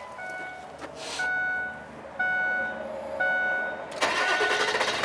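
Truck's cab warning chime sounding about once a second, then the Ford F550's engine cranking and starting about four seconds in.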